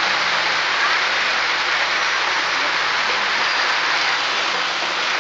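Steady rain coming down hard: an even, unbroken hiss.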